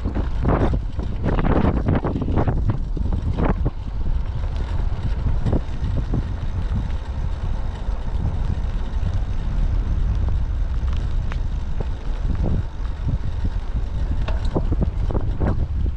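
Typhoon wind buffeting the microphone: a loud, steady low rumble, with stronger gusts in the first few seconds and again near the end.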